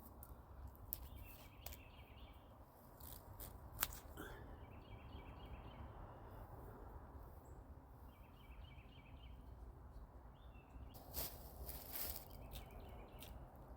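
Quiet woodland ambience: a small bird repeats a short chirping phrase every few seconds, with a few scattered crunches and rustles in dry leaves.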